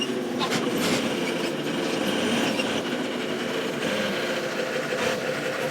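Steady vehicle running noise, a constant drone with a few light clicks.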